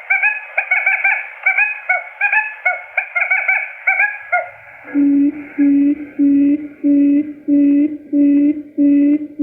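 Recorded quail lure calls. Rapid high chirping notes come first; about four and a half seconds in they give way to a steady series of low, evenly spaced hooting notes, a little under two a second.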